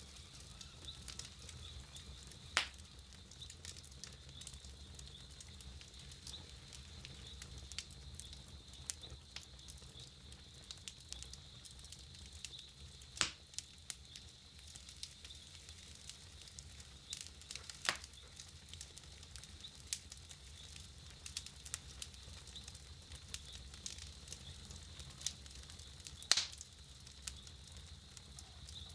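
Wood campfire crackling: a steady scatter of small crackles, with four louder pops spread through.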